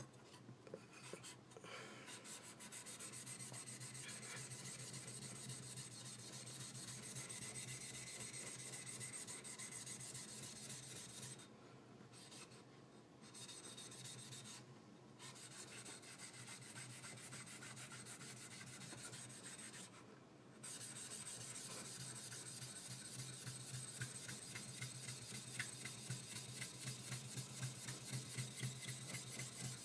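High-speed steel skiving knife rubbed back and forth on a sharpening stone: continuous scraping strokes with a few brief pauses, the individual strokes standing out more near the end. The blade is being ground to take out low and high spots along the edge.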